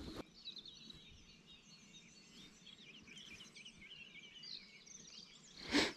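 Faint birdsong from several small songbirds: a busy mix of quick high chirps and trills overlapping one another. A brief louder noise breaks in just before the end.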